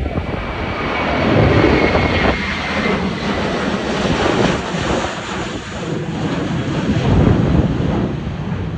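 Jet airliner engines running loud and steady as the plane passes, with a faint high whine that falls slightly in pitch over the first few seconds. Gusty wind buffets the microphone underneath.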